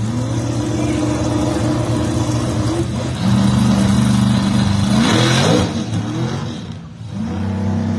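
Two drag-race cars' engines held at steady high revs on the starting line. About five seconds in, one engine note sweeps up and back down, and near seven seconds the sound briefly drops before the steady engine notes resume.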